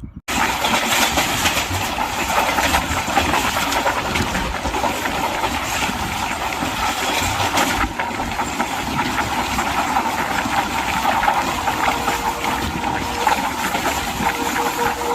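Train running on the rails: a loud, steady rush of wheel and track noise thick with fine rapid clicks, starting abruptly just after the start. A faint steady tone joins in near the end.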